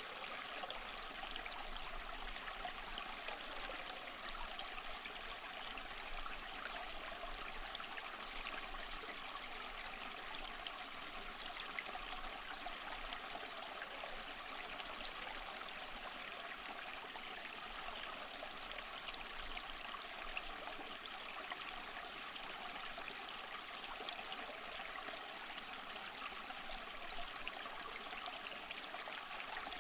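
Waterfall: a steady, even rush of falling and splashing water, with no change or break.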